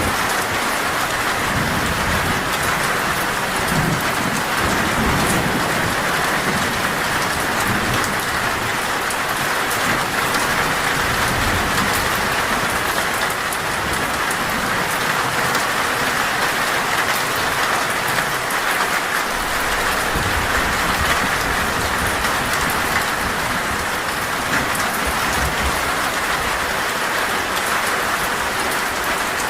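Heavy rain drumming steadily on a metal roof, with low thunder rumbling in the first part.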